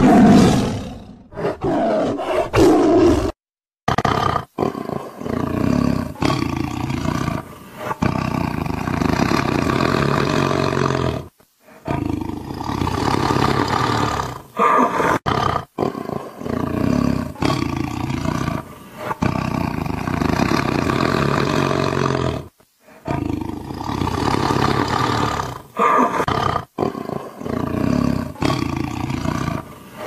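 Siberian tiger roaring: a string of loud roars edited together, with abrupt cuts and a few brief silent gaps between them.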